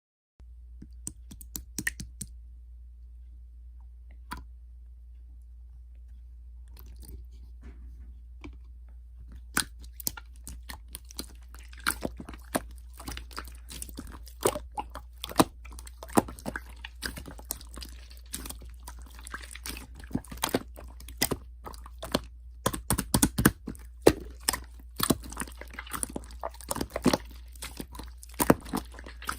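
Irregular crunching and crackling clicks, sparse at first and coming thick and fast from about ten seconds in, over a steady low hum.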